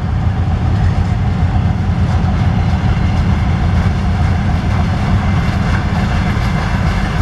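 A train rolling on the track, with a steady heavy rumble from its wheels and wagons.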